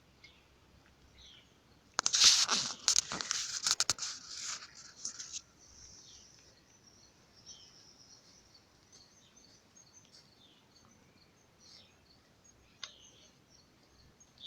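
A loud rustling, crackling burst about two seconds in that lasts about three seconds, then faint, scattered high chirps of sparrows.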